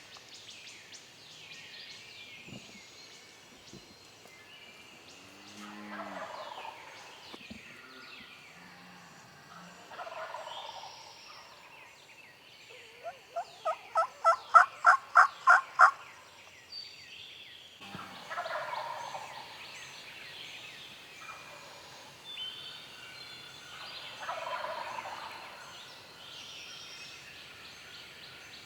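A wild turkey gobbler gobbling four times, fainter than the yelping, while songbirds chirp. About halfway through, a loud run of about a dozen evenly spaced turkey yelps builds in loudness.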